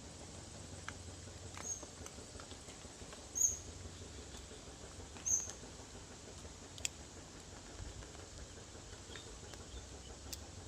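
Nestling bird giving three short, high-pitched squeaks about two seconds apart, with a few faint clicks, over a steady hiss.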